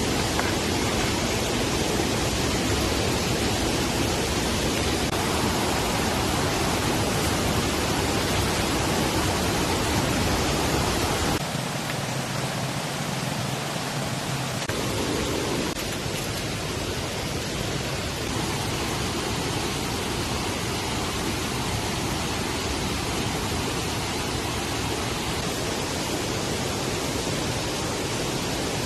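Rain falling steadily as an even hiss, changing in tone about eleven seconds in when the low rumble under it drops away.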